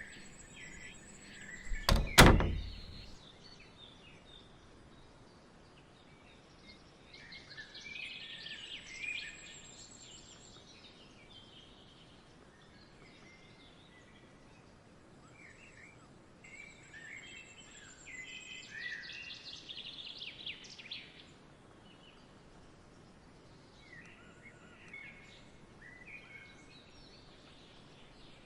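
A single loud thunk about two seconds in, then songbirds chirping in short bouts, with a thin high trill now and then over a soft outdoor background.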